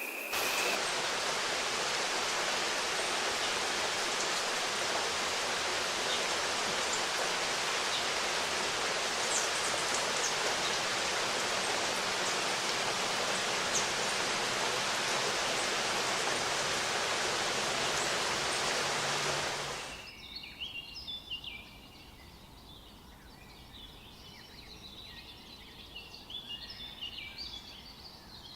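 Steady rushing of water that cuts off abruptly about twenty seconds in. After it, small birds chirp and twitter quietly.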